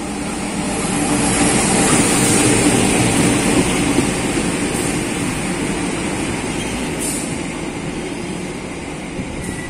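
KAI CC 201 (GE U18C) diesel-electric locomotive running past close by, followed by passenger carriages rolling over the rails. It is loudest in the first few seconds as the locomotive goes by, then eases to a steadier rumble of wheels as the coaches pass.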